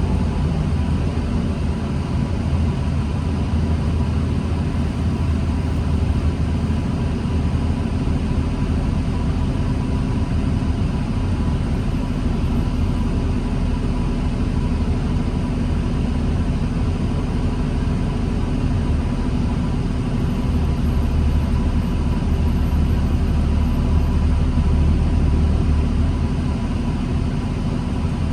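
New Flyer D40LFR diesel transit bus running steadily, heard from inside the bus: a low, even engine rumble with a thin steady whine on top.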